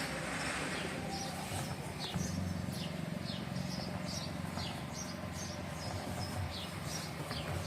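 A bird chirping over and over, short falling chirps about two a second, over a low steady rumble.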